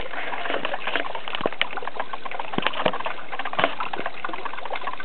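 Small waterfall splashing and a stream running over rocks: a steady rush of water with frequent sharp splashes.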